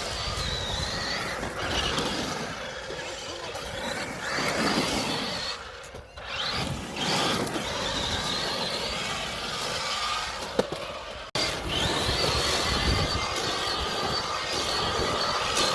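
Electric motor of a Traxxas RC truck whining at high speed, the pitch rising and falling with the throttle, over tyre and dirt noise. The sound breaks off abruptly about eleven seconds in and resumes with a steadier whine.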